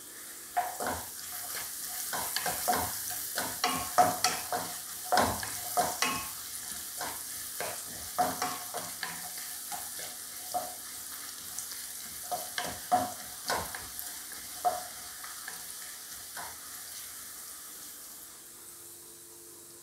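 Small pieces of coconut frying in coconut oil in a nonstick wok, sizzling steadily, while a wooden spatula stirs them and knocks irregularly against the pan. The stirring stops about three-quarters of the way through, leaving only the sizzle.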